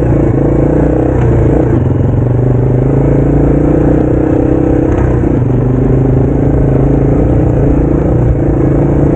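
Yamaha TW200's single-cylinder four-stroke engine running steadily while the bike is ridden, its pitch shifting slightly a few times with the throttle.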